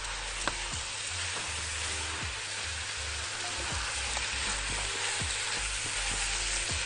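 Rice and sautéed onion, pepper and tomato sizzling in hot oil in a large metal pot while a spatula stirs them, with a few light scrapes and knocks of the spatula against the pot. The raw basmati rice is being toasted in the spiced mixture.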